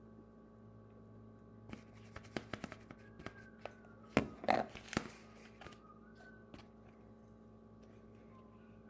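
Mixing utensil clicking and knocking against a bowl while cream cheese and marshmallow cream are beaten by hand. The taps come in a quick, irregular run from about two seconds in to about six seconds in, louder near the middle, over a faint steady hum.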